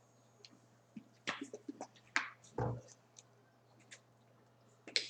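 Scattered small clicks, taps and light rustles from things being handled on a table, with one dull knock about two and a half seconds in.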